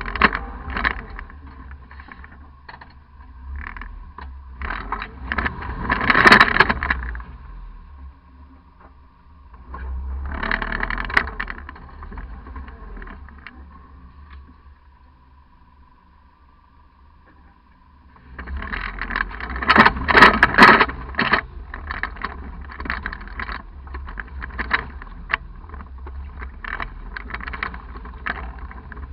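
Off-road truck crawling through a rocky river crossing: a constant low engine rumble with a faint steady whine. Over it come clusters of loud rough noise, loudest about six and about twenty seconds in, with a quieter lull in between.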